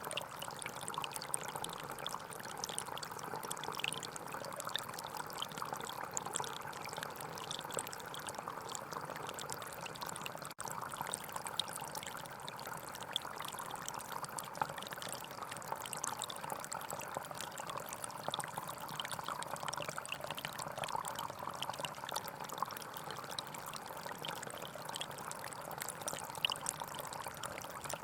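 Small forest stream flowing and trickling steadily, a continuous even rush of water. It cuts out for an instant about ten seconds in.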